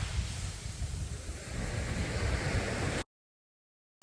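Ocean surf washing onto a beach in light drizzle: a steady noise of breaking waves. It cuts off suddenly about three seconds in, leaving a second of total silence.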